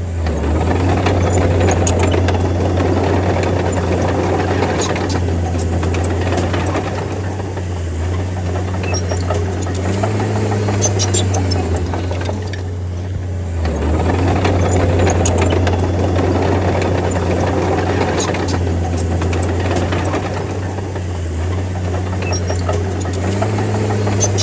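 Bulldozer's diesel engine running steadily under load, its pitch stepping up briefly about ten seconds in and again near the end, with steady rattling and scattered metallic clicks.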